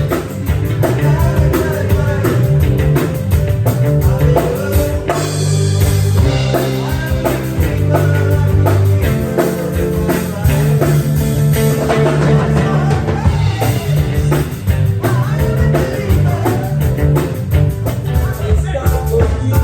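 Band music: a strong bass line, guitar and a drum kit keeping a steady beat.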